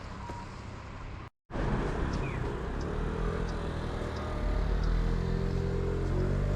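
Quiet background noise cuts off abruptly about a second and a half in. A vehicle's engine or drive motor then starts up louder, its hum slowly rising in pitch as it gathers speed.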